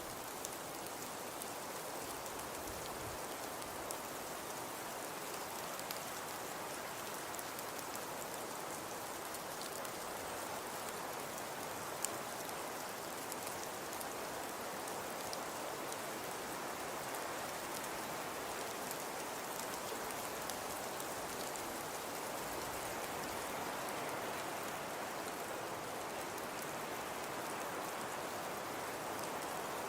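Fireplace crackling: a steady hiss sprinkled with small pops, with one sharper pop about twelve seconds in.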